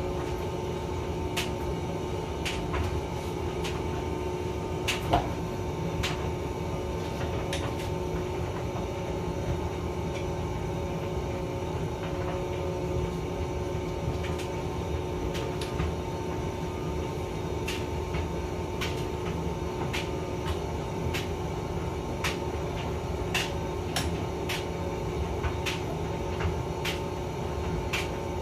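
Hotpoint vented tumble dryer running: a steady motor and fan hum over a low rumble, with irregular light clicks and taps throughout and one louder knock about five seconds in.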